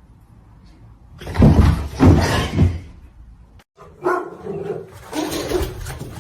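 A dog vocalising loudly and roughly for about two seconds. After a short break, a different sound with a steady pitch follows.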